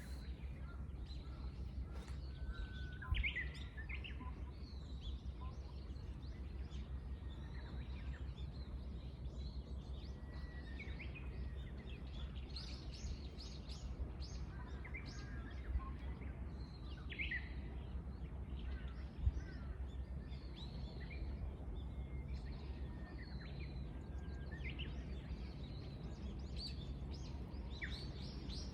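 Several wild songbirds chirping and trilling in short, scattered phrases over a steady low background rumble, with two brief soft knocks, one about three seconds in and one past the middle.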